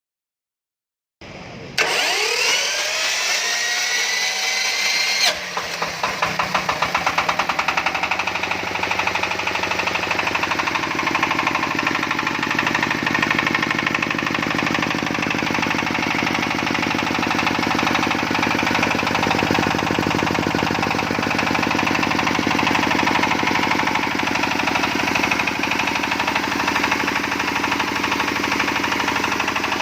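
Dong Feng S1115M single-cylinder diesel engine being started on its electric starter: the starter motor whines, rising in pitch for about three seconds, then cuts out suddenly as the engine catches and settles into a steady, even diesel chugging.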